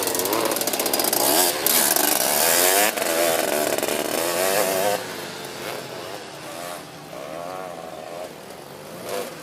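Racing three-wheeler ATC engines revving up and down through the gears, loud for the first five seconds and then quieter as they pull farther away.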